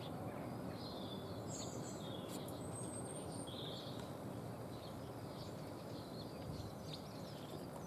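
Small wild birds chirping and calling, several short high notes close together in the first few seconds and a few scattered ones later, over a steady outdoor background hiss.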